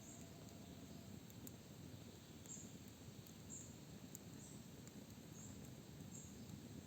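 Faint forest ambience: a high, thin bird chirp repeating about once a second, a few faint sharp crackles from a bonfire, and a low steady rumble underneath.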